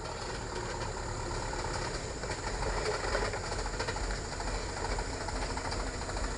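Palm-oil truck's engine running at low revs as the truck creeps slowly through a deep pothole, a steady low rumble with irregular rattling over it.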